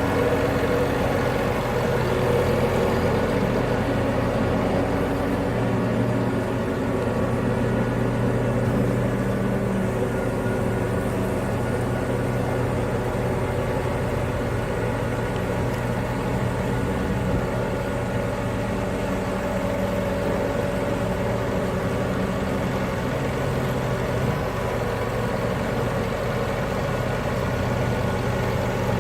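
Case IH Magnum tractor's diesel engine running steadily, a deep, even drone that holds its speed throughout.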